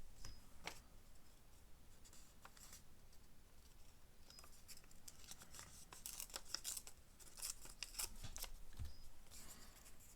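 Faint rustling and light clicks of paper scraps and craft supplies being handled and sorted through, busier about six seconds in.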